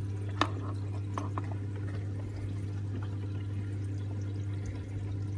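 Water pouring and trickling in a reef aquarium sump over a steady low hum, with a sharp click about half a second in and a few faint ticks after it.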